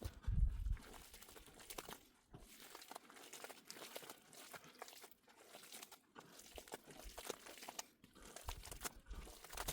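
Irregular crinkling and crackling, made of many small sharp clicks, with a low thump about half a second in.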